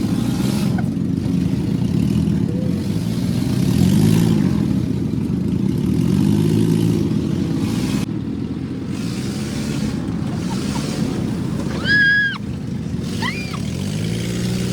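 Engine of a moving motor vehicle running under load, its pitch rising and falling every couple of seconds as the throttle varies. A short high beep sounds about twelve seconds in.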